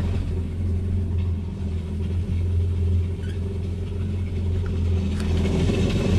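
Jet ski engine idling steadily while hooked to a garden-hose freshwater flush, running smoothly with no change in speed.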